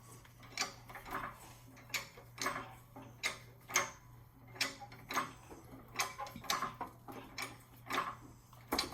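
Engine hoist ratcheting as it lifts a Chevy engine out: a run of sharp clicks, about one to two a second and somewhat uneven, over a steady low hum.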